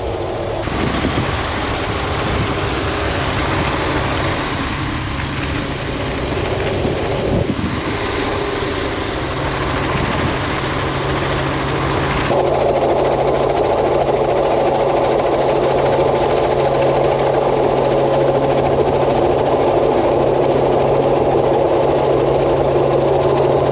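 An engine running steadily. The sound changes abruptly twice, about half a second in and about halfway through, with a steady low hum taking over in the second half.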